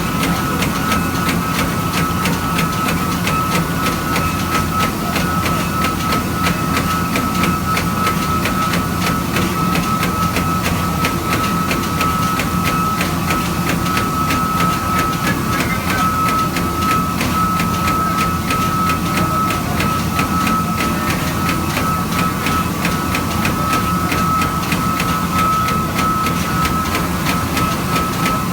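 Multi-spindle CNC machine running steadily, a constant high whine from the spindles over continuous mechanical noise and fine rapid ticking.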